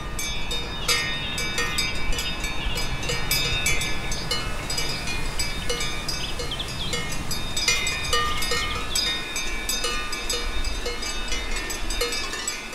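Bells on grazing livestock clanking irregularly, many overlapping, each clank ringing briefly.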